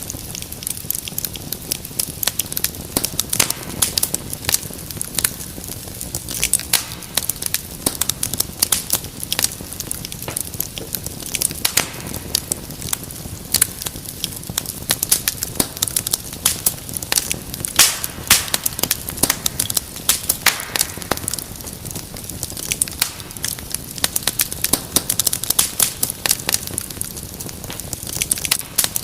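Wood fire crackling in a fireplace: dense, irregular snaps and pops over a steady soft hiss.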